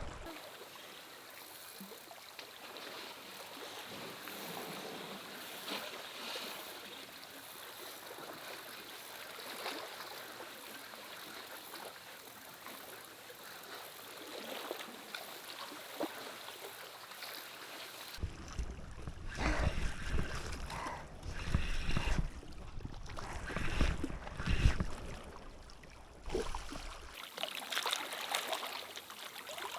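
Steady hiss of rain and sea water on a rocky shore. For about nine seconds past the middle, heavy low rumbling with irregular knocks joins it, then stops abruptly.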